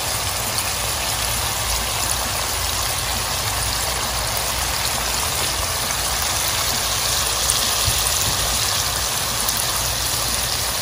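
Shrimp, onion, garlic and green chillies sizzling steadily in hot oil in a frying pan.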